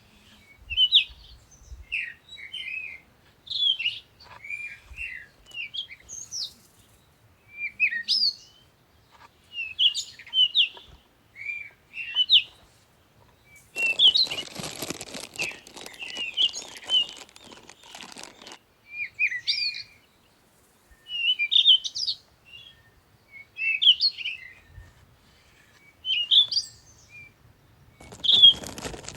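Songbird singing short chirping phrases, repeated about once a second. Midway a crackling, hissing noise runs for about four seconds, and it starts again near the end.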